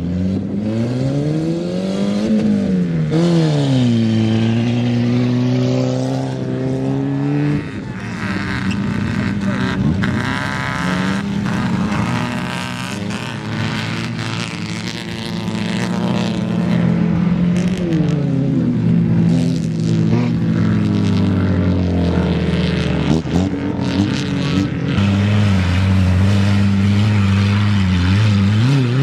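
Engines of old wrecked hatchback cars being revved hard while racing on a dirt track. The engine pitch climbs steeply in the first couple of seconds off the start, then rises and falls again and again with gear changes and lifts off the throttle through the corners.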